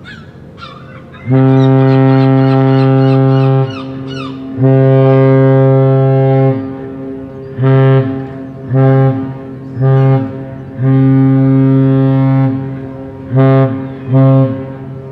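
A cruise ship's horn sounds a pattern of blasts as the ship departs: two long, three short, one long, then two short. It is one steady deep tone on every blast.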